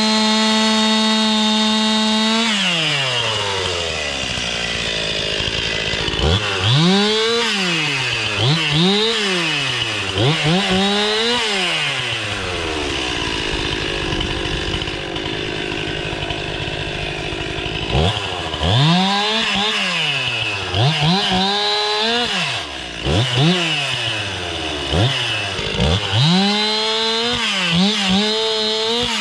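Stihl 261 two-stroke chainsaw held at full throttle for about two seconds, then dropping to idle and revved up and down in quick repeated bursts, idling for several seconds in the middle before the bursts start again.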